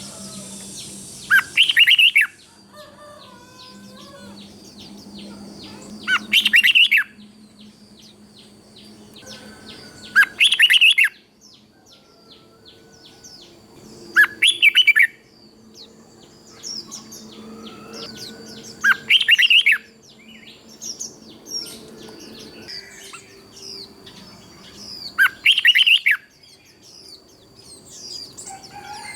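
Red-whiskered bulbul singing: six short, loud song phrases, each a little over four seconds apart, with fainter chirps between them. A faint steady high tone runs underneath.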